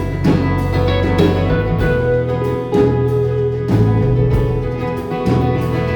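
Live band playing an instrumental break of a folk-rock song: guitar over a bass line, the chords changing every second or two.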